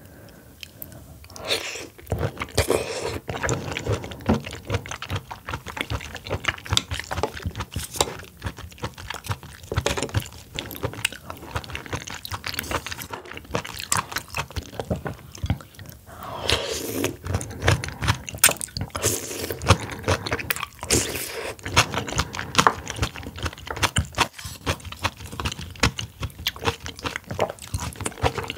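Close-miked eating sounds of a person chewing and biting oysters: a steady run of quick, wet mouth clicks, louder for a stretch about halfway through.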